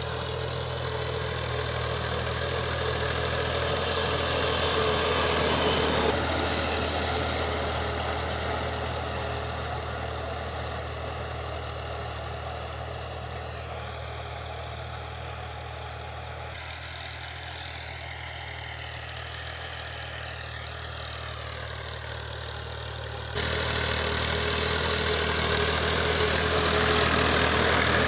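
Tractor diesel engine running steadily with a low, even hum. The sound changes abruptly a few times, and becomes suddenly louder about four-fifths of the way through.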